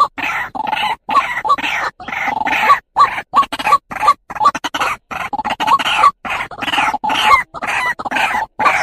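White-breasted waterhen (truwok, ruak-ruak) calling: a fast run of repeated loud ruak-ruak notes, several a second, broken by brief gaps of dead silence as in a looped lure recording.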